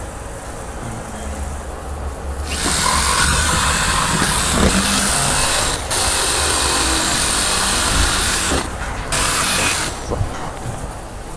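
A handheld power tool runs in a long loud burst starting about two and a half seconds in, with a short break partway through and another near the end, then stops. A steady low rumble runs underneath.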